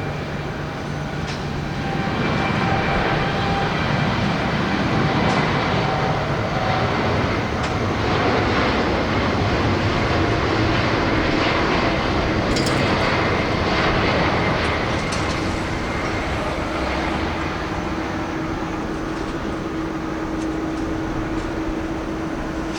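Large jet airliner taking off, its engines at takeoff thrust. The jet noise swells about two seconds in and stays loud, with a steady hum coming through in the second half.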